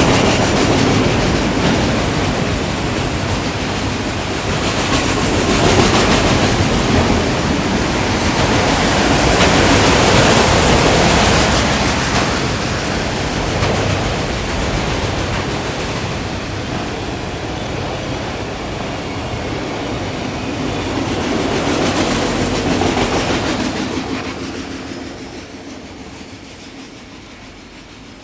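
Train cars rolling past, the wheels clacking over the rail joints in a dense rumble. The sound fades away over the last few seconds as the end of the train moves off.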